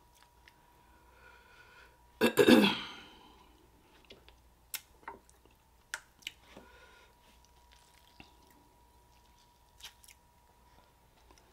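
Close-miked eating sounds: soft chewing, lip smacks and small mouth clicks over a faint steady high tone. About two seconds in, one loud, short burst of breath and voice cuts through, like a sneeze or an exclamation at spicy food.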